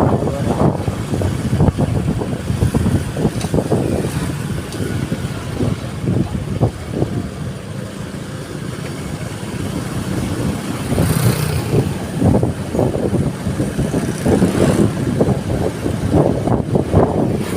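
Road vehicle on the move: engine and road rumble, with wind gusting on the microphone. It eases a little midway and picks up again near the end.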